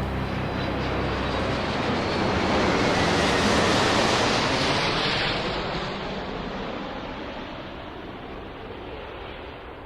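A rushing, jet-like noise effect closing out a song: it swells to a peak a few seconds in, then fades away, the hiss at the top dying out first.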